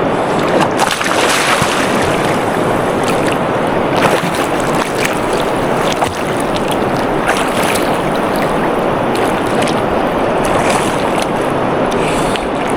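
River water rushing steadily, an even, continuous wash of moving water.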